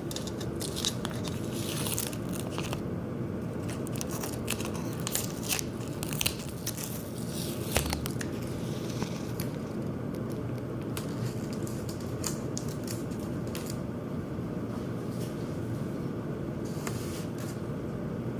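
Birds tapping and scraping against window glass: irregular sharp taps and scratches over a steady low hum.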